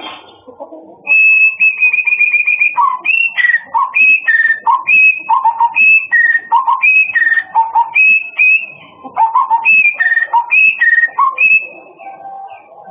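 Murai songbird singing loud, clear whistles: a quick run of repeated high notes about a second in, then a phrase of a high note dropping to a lower one, repeated about twice a second until near the end.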